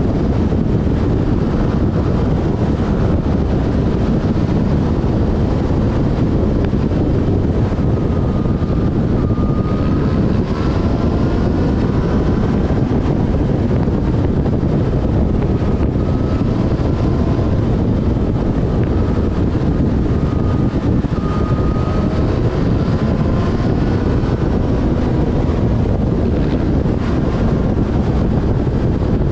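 Riding a Yamaha Fazer FZ6S motorcycle at speed: heavy wind rush on the microphone, with the bike's 600 cc inline-four engine note rising and falling faintly beneath it as the revs change.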